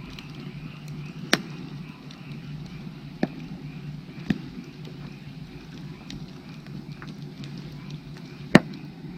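Firewood burning in an open fire, crackling with four sharp pops, the loudest near the end, over a steady chorus of frogs calling.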